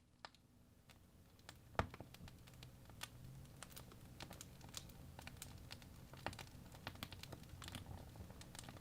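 Wood fire crackling in a fireplace: irregular sharp pops and snaps from the burning logs over a low, steady rumble of flames. The sound fades in over the first couple of seconds, with one loud pop about two seconds in.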